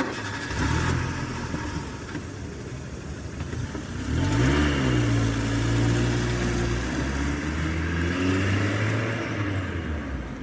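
Engine running with a low steady note that rises in pitch about four seconds in, as if revved, then holds steady until near the end.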